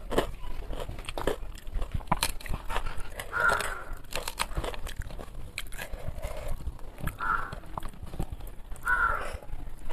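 Close-up eating sounds as rice is mixed and eaten by hand: chewing, lip smacks and fingers working food on the plate, heard as many short clicks. An animal calls three times in the background, short harsh calls about half a second long.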